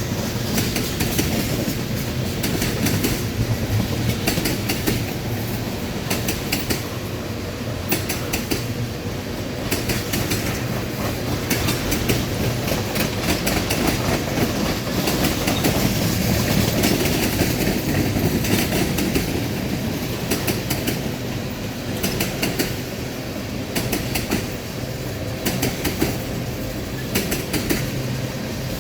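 Norfolk Southern ethanol train's tank cars rolling past with a steady low rumble, the wheels clicking over rail joints in repeated clusters.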